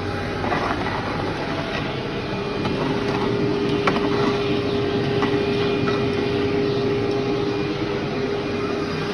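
Vacuum cleaner running over a heavily soiled carpet, with scattered clicks of grit and debris rattling up the nozzle. A steady hum joins the rushing noise about two seconds in.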